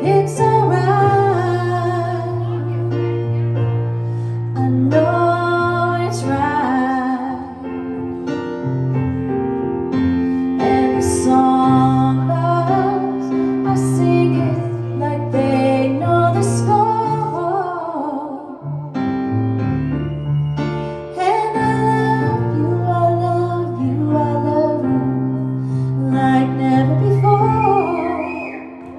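A woman singing with piano accompaniment, her melody in phrases over sustained low chords.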